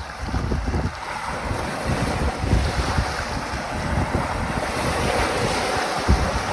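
Caspian Sea waves washing in, the surge swelling through the middle, with gusty wind buffeting the microphone.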